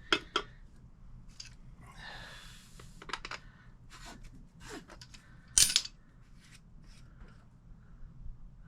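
Handling noises from plumbing work: a string of light clicks and taps, a short scraping rustle about two seconds in, and one louder sharp click a little after five and a half seconds.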